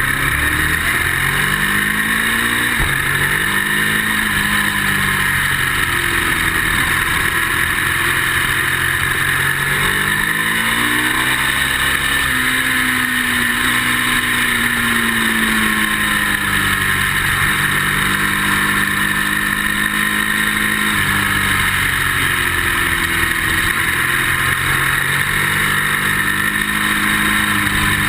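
Ducati motorcycle's V-twin engine at speed on a racetrack, the revs climbing and dropping again and again through gear changes and corners, under a steady rushing noise.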